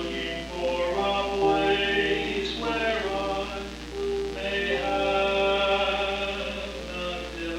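Church choir singing a slow passage of held notes that shift from chord to chord, with a steady low hum underneath.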